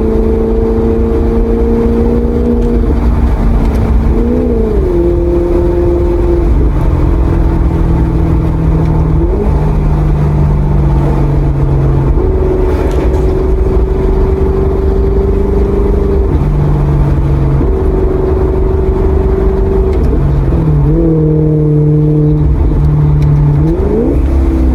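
Maserati GranTurismo V8 engine driving at steady revs, its note rising in short sweeps a few times as the car shifts gear and blips the throttle.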